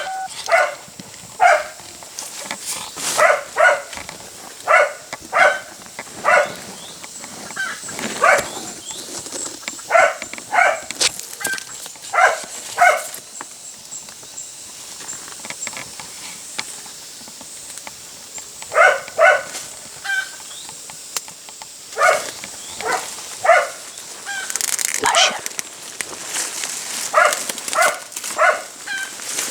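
A dog barking and yelping in short, high calls, mostly in quick pairs and threes, in bursts with pauses between them.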